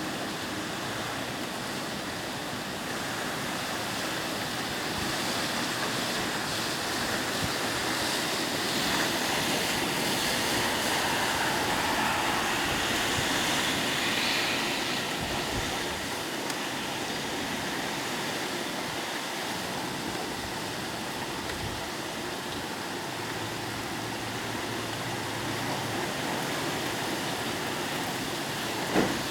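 Heavy typhoon rain pouring steadily with wind, swelling for a while in the first half and easing again. A single sharp knock near the end.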